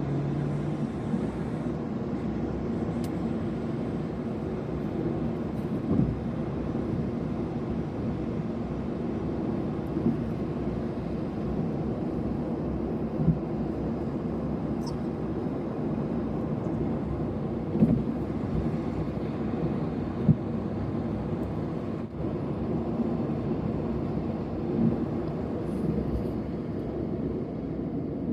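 Steady low vehicle rumble, with a few faint knocks along the way.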